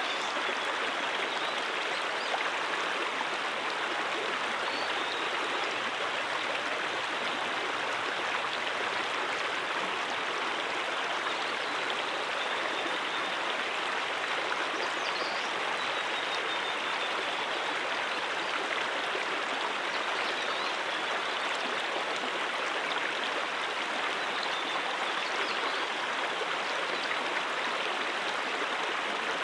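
Stream water running steadily: a continuous, even rush of flowing water with no pauses.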